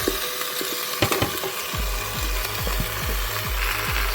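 Chicken and potato pieces sizzling in a hot pot while being stirred, with a few sharp utensil knocks against the pot about a second in.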